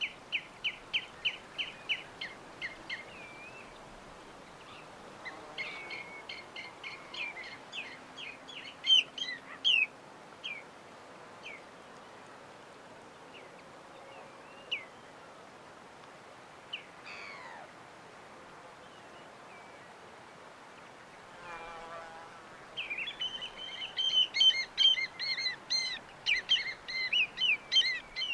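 Small birds chirping in quick series of high notes, dense at the start and again near the end, with scattered single chirps and a quieter gap in between. One brief lower call comes about three quarters of the way through, over a faint steady hiss.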